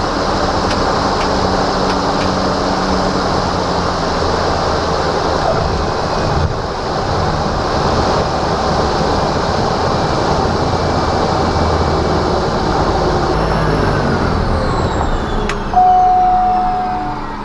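Cessna Caravan's PT6A turboprop engine running steadily, heard from the cockpit. Near the end its pitch slides downward and the sound fades as it winds down, with a short steady tone sounding briefly shortly before the end.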